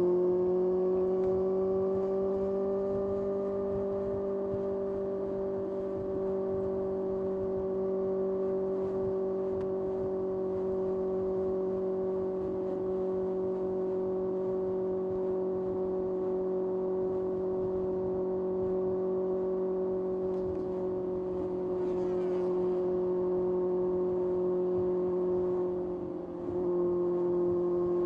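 2025 Kawasaki ZX-6R's 636 cc inline-four engine running under way at steady revs, its pitch climbing slightly at first and then holding even. Near the end the engine note dips briefly and comes back.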